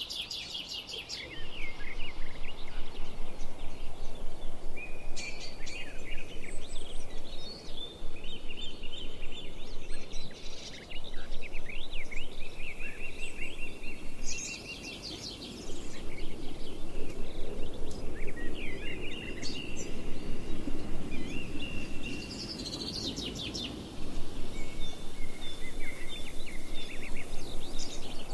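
Several songbirds chirping and trilling, with short calls and rapid pitch sweeps, over a steady low background noise.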